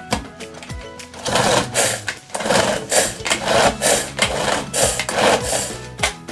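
Repeated scraping strokes, about two to three a second, starting about a second in and stopping near the end, typical of food being worked by hand in the kitchen, over background music.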